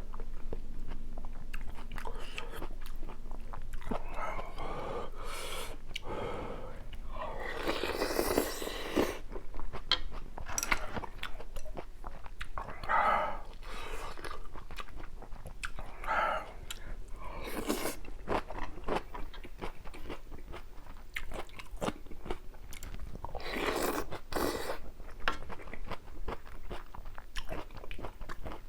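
Close-miked eating: chewing and crunching mouthfuls of spicy ramyun mixed with rice and kimjang kimchi, with many small wet clicks and a few louder noisy bursts spread through.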